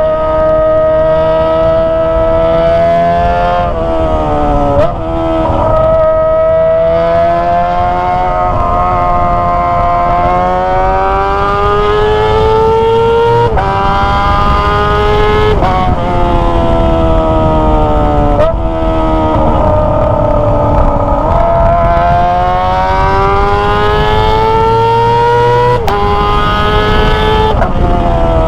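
Kawasaki ZX25R's 250 cc inline-four howling through a Toce aftermarket exhaust while riding. It revs up and shifts gear over and over, the pitch climbing for a few seconds and then dropping sharply at each shift.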